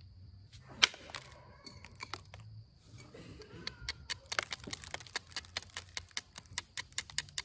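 Onondaga chert being worked by hand while a point is thinned. There is one sharp snap about a second in, then from about four seconds a quick run of small dry clicks, several a second.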